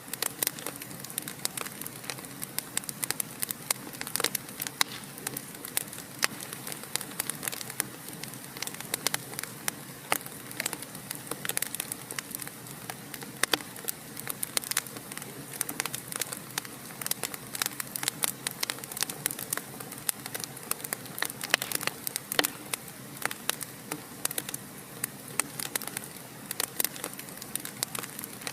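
Wood fire crackling in a fireplace: many small irregular pops and snaps, some sharper than others, over a steady hiss.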